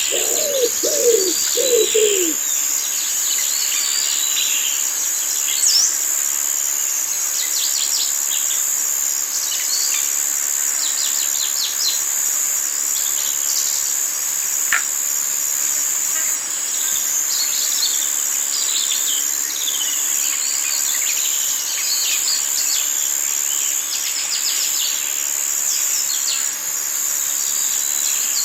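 Wild forest ambience: many birds chirping and calling over a steady, high-pitched insect drone. A low, repeated falling call stops about two seconds in.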